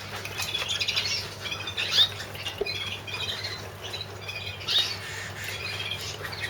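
Many young canaries chirping and calling at once, short high calls overlapping throughout, with a couple of louder calls about two seconds in and near five seconds, over a steady low hum.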